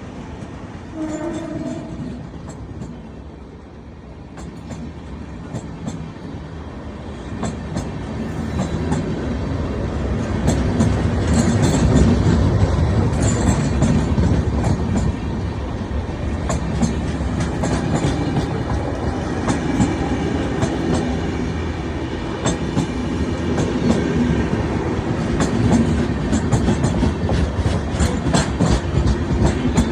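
Train running past at speed, its wheels clattering rhythmically over the rail joints. The sound grows louder over the first dozen seconds and then holds steady as the coaches go by.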